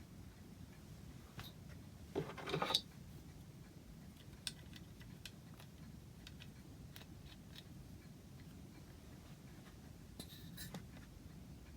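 Quiet handling noises: scattered light clicks, with a short scraping rustle about two seconds in and a fainter one near the end.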